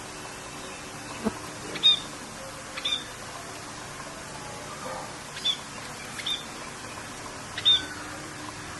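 Birds calling in short, high chirps, about five of them spaced a second or so apart, over a steady hiss of rain.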